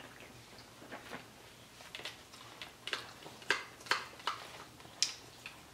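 Children chewing chicken nuggets with their mouths, a run of short smacking clicks about two a second that grow louder in the second half.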